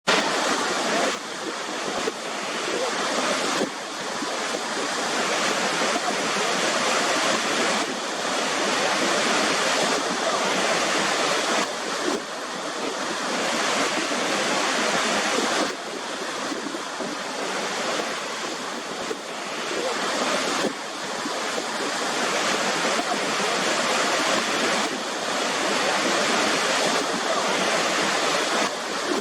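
A waterfall: the steady, dense rush of falling water, with abrupt small shifts in level every few seconds.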